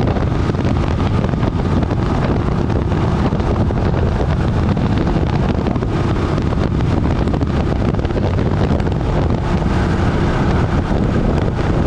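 Moto Guzzi Norge motorcycle riding at a steady speed, its transverse V-twin engine running under heavy wind buffeting on the microphone.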